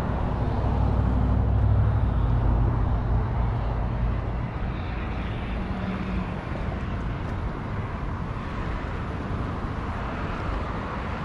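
A passing engine drone: a steady low hum, loudest in the first few seconds and fading to a wide background rush of traffic.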